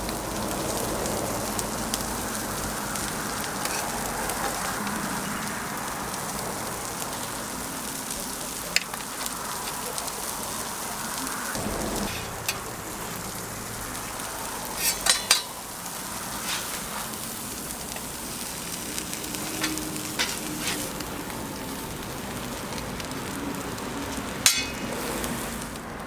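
Food sizzling steadily as it fries on a street-stall toast griddle, with scattered sharp taps, a quick cluster of them about halfway through.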